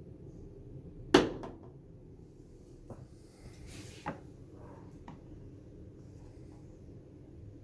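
A sharp knock about a second in, then a few lighter clicks, over a low steady hum.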